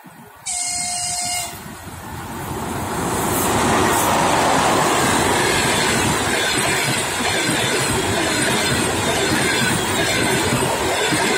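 An EP20 electric locomotive sounds one short horn blast, about a second long. Then its express passenger train rushes past at speed: the roar of wheels and coaches rises over a couple of seconds and holds loud and steady.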